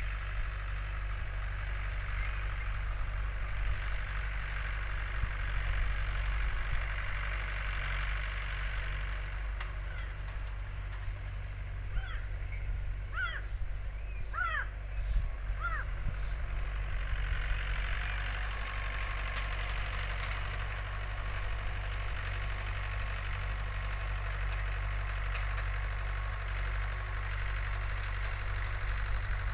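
Tractor engine running steadily, a low hum that does not change, with birds calling over it and a cluster of short, sharp calls midway through.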